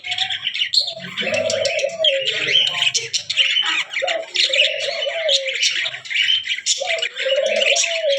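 A white dove cooing, three drawn-out coos each about a second long and a few seconds apart, over a steady background of many small birds chirping.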